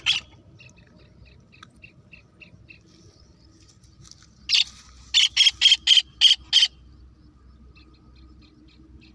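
Birds calling: faint, quick chirps at first, then about halfway through a loud run of about eight harsh calls in quick succession, followed by faint chirps again.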